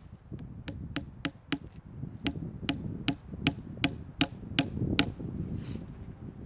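A hammer striking metal in a steady series of blows, about three a second, each with a short bright ring. There is a short pause after the first five blows, then a second run of about eight.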